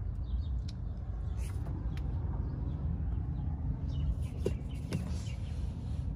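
The Mansory G900's 4.0-litre V8 idling, a low steady rumble heard from inside the cabin, with a few light clicks and taps over it.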